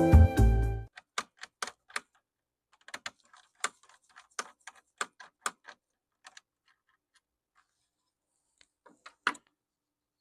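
Background music that cuts off about a second in, then scattered light clicks and taps of small laptop screws and a screwdriver being handled, with a louder click near the end.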